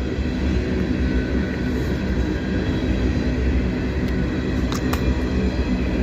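Freight train cars rolling past close by: a steady rumble of steel wheels on the rails, with two brief sharp clicks about five seconds in. These are the last cars at the tail end of the train.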